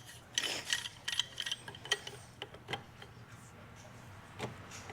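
Irregular metal-on-metal clicks and clinks from hand tools being worked on a hydraulic cylinder.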